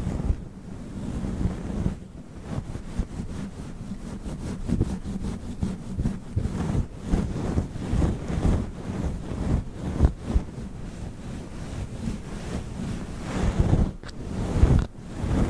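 Fluffy furry microphone cover rubbed and brushed against the microphone, giving a muffled, low rumbling rustle that swells and fades irregularly.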